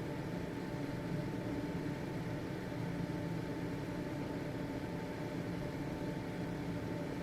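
Household ventilation fan running steadily: a constant airy whoosh with a faint motor hum.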